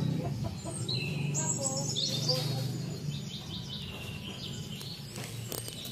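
Birds chirping with high, thin calls that slide in pitch, most of them in the first three seconds, over a steady low hum.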